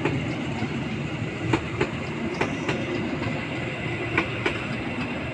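Train rolling past on the rails, its wheels clicking over rail joints in pairs over a steady rumble.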